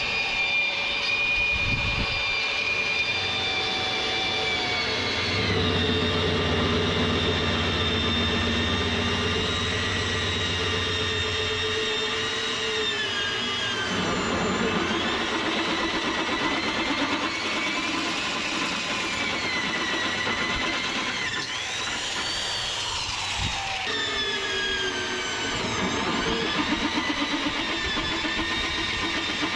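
A power tool whining, its pitch dipping and recovering as it is loaded, with a low engine-like hum joining for several seconds near the start.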